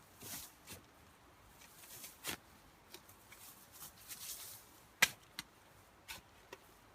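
Digging out a fire pit by hand: scattered scraping of soil and short knocks, the sharpest knock about five seconds in.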